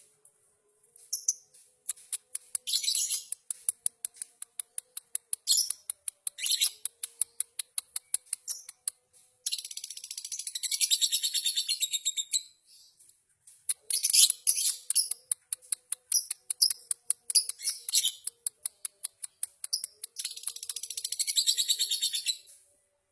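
Lovebirds singing in long, rapid, high-pitched chattering trills, broken by short pauses, with two especially long unbroken runs in the middle and near the end.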